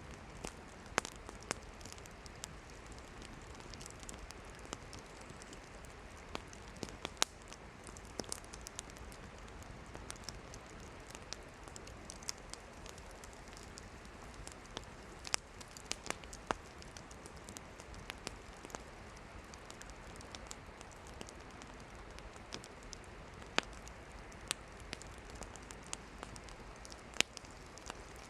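Wood campfire burning: a steady soft hiss with irregular sharp crackles and pops from the firewood, a few of them louder than the rest.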